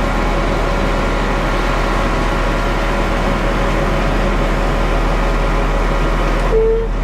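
Ready-mix concrete mixer truck's diesel engine running steadily at low speed as the truck crawls forward, heard from inside the cab. A short tone sounds near the end.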